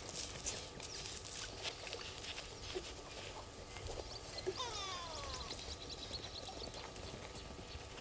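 Outdoor bush ambience with a wild bird's descending whistled call about halfway through, several notes sliding steeply down in pitch over about a second, followed by a fast, high ticking series. Scattered short clicks and rustles in dry grass run throughout.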